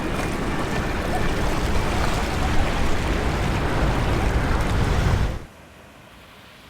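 Jet airliner engine noise from a Singapore Airlines Boeing 787-10 as it lands: a loud, rough, steady rumble. It cuts off abruptly about five seconds in, leaving only a faint wash of wind and surf.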